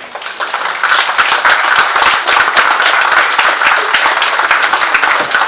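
Congregation applauding, a dense clapping that builds up within the first second and stays loud throughout.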